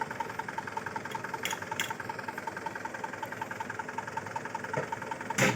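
Truck's diesel engine idling steadily with a rapid, even clatter. A short, louder noise comes near the end.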